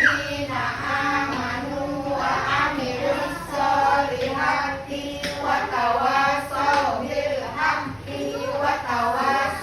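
A group of young children singing together in unison, a continuous rhythmic group song.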